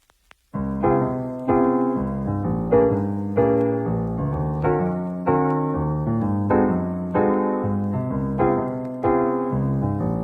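Background music: soft piano chords struck about once every two-thirds of a second, each fading before the next.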